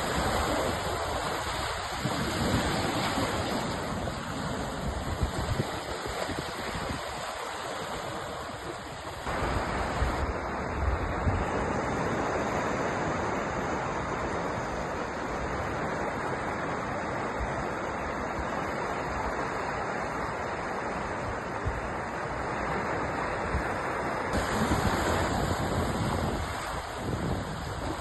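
Sea surf: waves breaking and washing in a continuous rush, swelling and easing, with a low rumble; the character of the wash changes about a third of the way in and returns near the end.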